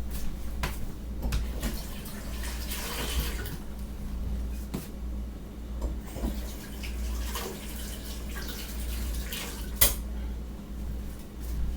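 Kitchen tap running into a sink, with light knocks of dishes and one sharp click near the end.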